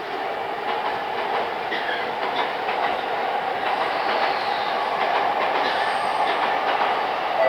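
Steady interior noise of a JR East E217 series commuter train, heard inside its motor car on an old cassette-tape recording, an even rushing sound with no distinct events.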